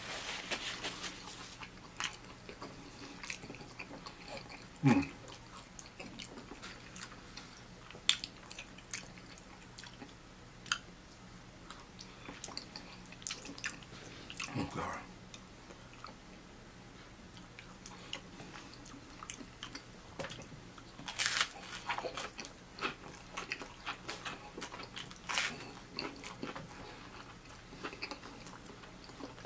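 A man chewing and biting food close to the microphone: soft wet chewing with irregular small mouth clicks and a few louder crunches, typical of fried chicken breading and cheesy pasta.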